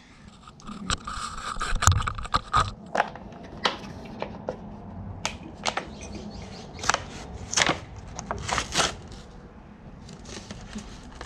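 Packaging of a new oil filter being opened and handled: scraping and crackling, then a string of sharp clicks and taps.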